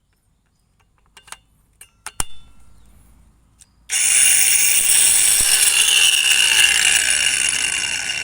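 Cordless angle grinder with a freshly fitted disc: a few sharp clicks and knocks, then about four seconds in the motor starts suddenly and spins free at full speed with a loud, steady high-pitched whine.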